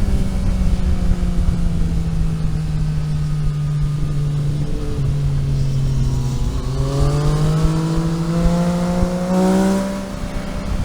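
Car engine running on the road, with tyre and road noise underneath. It holds steady revs, drops in pitch about five seconds in, then climbs steadily under acceleration before the revs fall away near the end.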